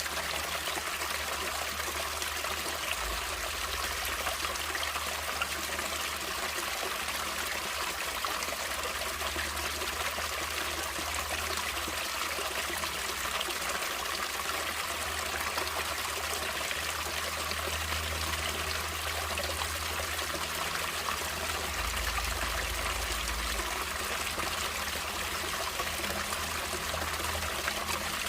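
Natural running water, a stream trickling and rushing steadily without a break.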